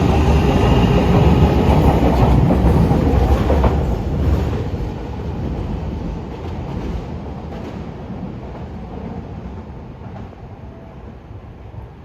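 Fukuoka City Subway 1000N series train running past, loud at first with wheels clattering over rail joints, then fading steadily as it moves away.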